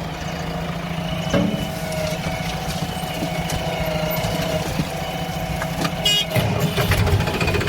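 Heavy diesel machine engine running steadily, with sharp metallic clanks about a second and a half in and a few more around six seconds in.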